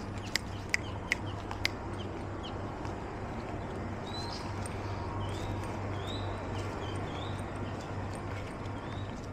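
Short rising bird chirps, repeated about once a second from a few seconds in, over a steady low hum. A few sharp clicks sound in the first two seconds.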